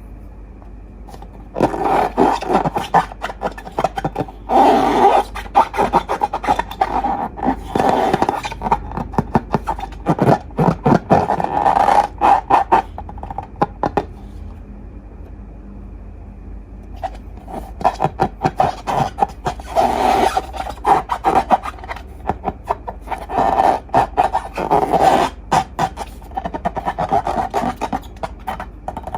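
Hands working slime: dense, wet crackling and clicking in two long spells with a quieter pause of a few seconds between them.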